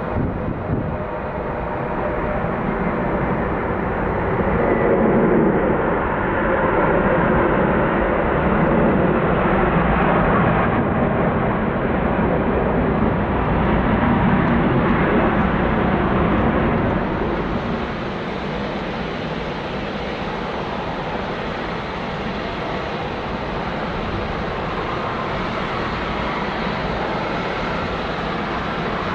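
Jet engines of a large widebody airliner: a loud, steady rushing noise that grows louder about five seconds in and drops back after about seventeen seconds, then holds steady.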